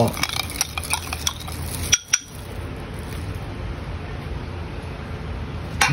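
Metal spoon clinking and scraping against a small glass bowl while stirring a soy sauce mixture, with many quick small clicks for about two seconds. After a short break, a steady low hiss follows.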